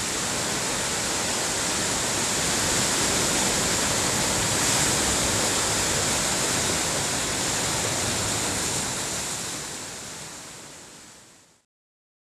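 Ocean surf from heavy waves, a steady rushing noise that fades out near the end.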